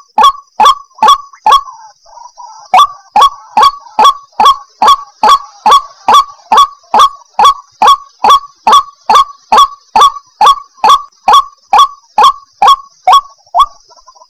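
White-breasted waterhen calling: a rapid run of harsh, evenly spaced 'kruak' notes, about two to three a second, with a brief pause about two seconds in.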